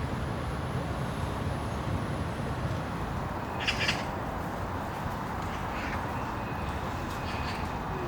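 A short bird call, once, about three and a half seconds in, over a steady low background rumble.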